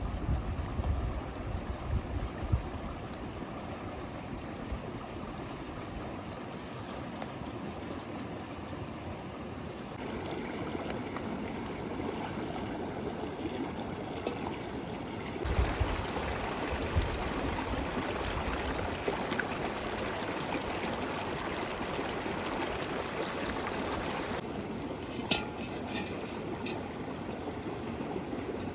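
River water flowing steadily. Its sound changes abruptly a few times, with brief low rumbles near the start and about halfway, and a few sharp clicks near the end.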